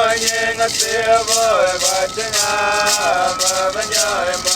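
A rattle shaken in a steady beat under singing, with long held notes that slide from one pitch to the next.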